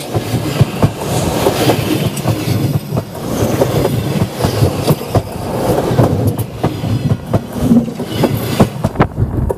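Railway wagon wheels rolling and clattering directly overhead as a train passes over the rails right above, with a steady heavy rumble and many sharp knocks as the wheelsets run over the track.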